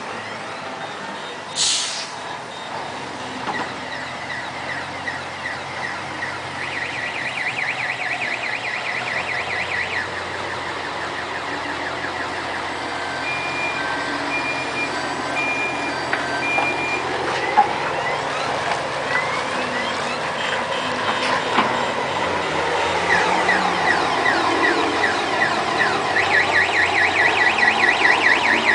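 A Scania 112H tractor unit's straight-six diesel engine running as the semi-trailer truck maneuvers, with a short air hiss from the air brakes about two seconds in. A run of on-off beeps comes midway, and the engine grows louder near the end.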